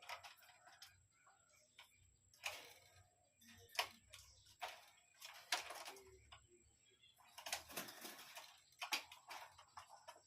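Faint, scattered clicks and taps at irregular intervals.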